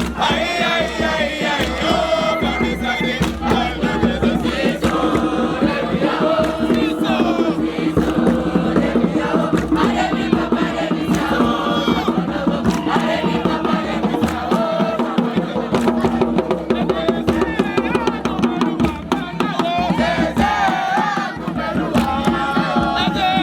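A group of scouts chanting and singing together in a loud campfire call-and-response, many voices at once with sharp rhythmic strokes running through it.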